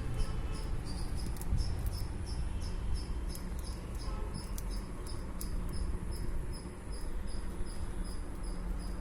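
An insect chirping steadily, about three short high chirps a second, over a low rumble, with a few faint clicks.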